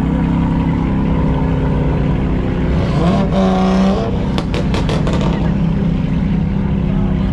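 Car engines running loudly; about three seconds in, one is revved up and held briefly, then a quick string of sharp exhaust pops follows.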